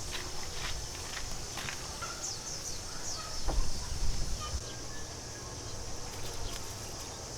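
Countryside ambience: a steady high insect drone with a few short bird chirps a couple of seconds in, and some low thumps about halfway through.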